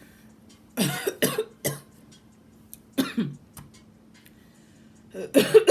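A woman coughing in short bursts: two or three coughs about a second in, another around three seconds, and a louder run of coughs near the end.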